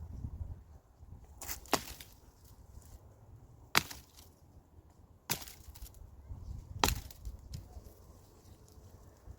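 Five sharp knocks at uneven intervals, like chopping strikes on wood, over a low rumbling background.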